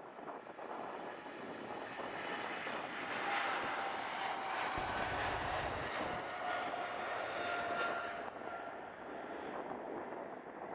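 Boeing 787-9 jet engines at take-off power, a rushing roar with a high whine that swells, holds and then eases off as the airliner passes. The whine drops slightly in pitch while it passes. Wind buffets the microphone.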